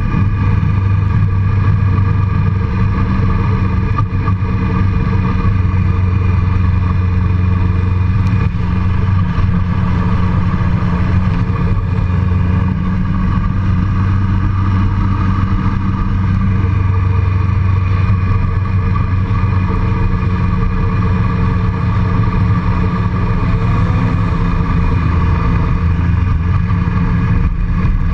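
Motorcycle engine running steadily at an unchanging pitch, a constant low drone with even tones above it.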